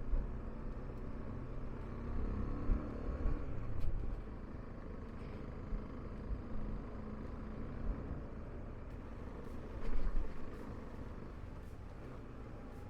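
Motorcycle engine running while riding, under steady low rumble; several louder swells, the biggest about ten seconds in.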